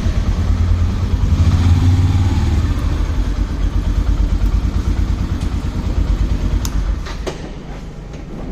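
Motorcycle ride: the engine and road noise make a steady low rumble that eases off about seven seconds in. A few sharp clicks come just before the drop.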